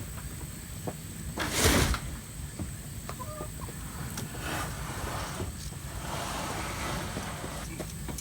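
Chickens clucking, with a short noisy burst about two seconds in and a longer hiss-like stretch later on.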